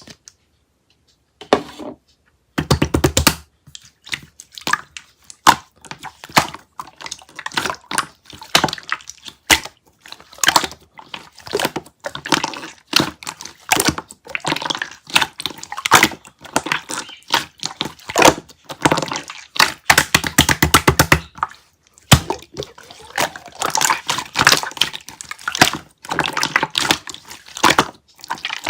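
Close-miked wet, sticky crackles and squelches of clear konjac jelly, in irregular quick clicks with brief pauses.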